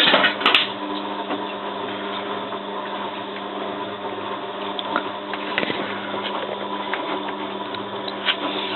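Bosch WFF2000 washing machine running in the early stage of its wash, a steady mechanical hum, with a few sharp clicks or knocks at the start and near the end.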